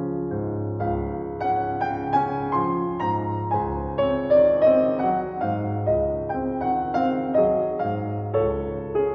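Slow, gentle piano music: a melody of single notes over sustained low chords.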